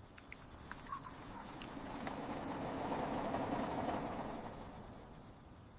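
Crickets trilling in one steady high note, with a soft low rumble that swells about halfway through and then eases off.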